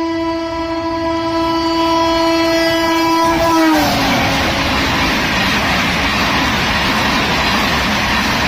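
WAP-7 electric locomotive's horn sounding one long blast, dropping in pitch as the locomotive passes about three and a half seconds in. It is followed by the steady rush and rattle of the Tejas Express coaches running past at speed.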